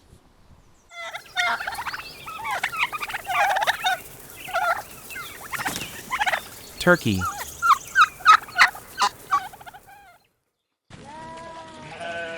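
Turkeys gobbling over and over in quick, warbling bursts, which stop abruptly about ten seconds in. Near the end a lamb starts bleating.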